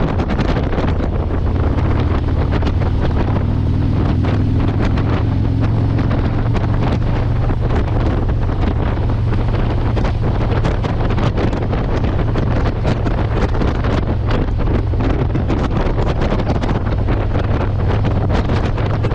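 Motorcycle engine running steadily at riding speed under heavy wind buffeting on the microphone.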